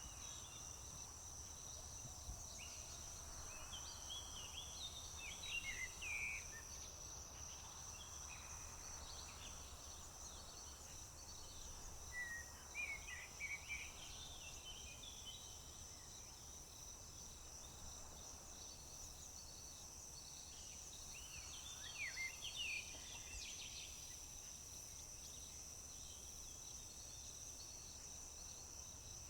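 A steady, high-pitched chorus of insects, most likely crickets, trilling without a break, with several short clusters of songbird calls over it.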